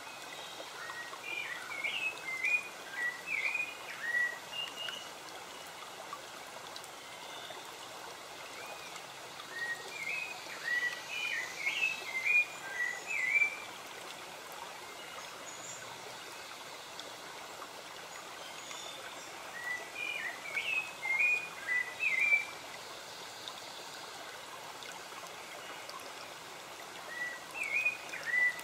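A songbird singing bouts of quick chirps and short whistled notes, about every nine seconds, over a steady hiss of running water.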